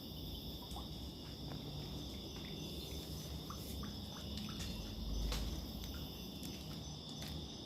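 Night chorus by a pool: a steady high-pitched trilling of crickets and other insects, with scattered short chirps and clicks from calling frogs.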